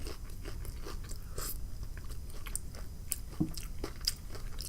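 A person chewing fried food, fries dipped in sauce, close to the microphone: many small wet mouth clicks and crunches, with a brief low hum of the voice about three and a half seconds in.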